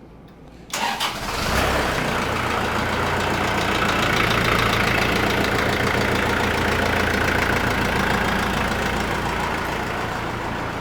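New Holland tractor's engine starting up, catching a little under a second in and settling into steady running. It is being run on fresh oil and new filters after the oil change, to check for leaks.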